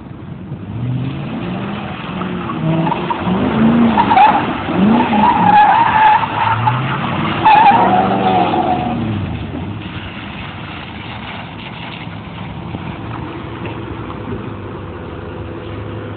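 Ford Mustang GT's V8 engine revving up and down repeatedly while the car drifts on wet pavement, with tire squeal, loudest about four to eight seconds in. After about ten seconds it settles to a steadier, quieter run.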